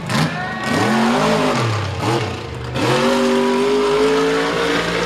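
Mega truck engine revving hard. It climbs and falls once. Then, about three seconds in, it climbs again and holds high revs for nearly two seconds before dropping off at the end.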